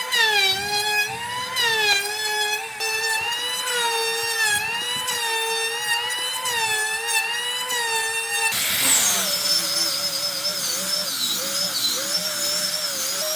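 Electric power tool running on wood, its pitch dipping and recovering again and again as it is loaded and eased off. About two-thirds of the way through, the sound turns harsher and noisier, with a wavering whine.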